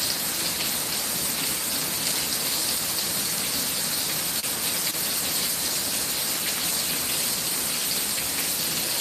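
Torrential thunderstorm rain pouring down, a steady, even hiss that does not let up.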